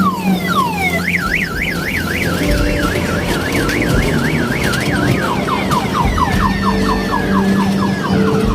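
Electronic siren sound effect cycling through patterns: a few falling sweeps, then a fast up-and-down warble of about four cycles a second, then rapid falling sweeps over a held tone near the end.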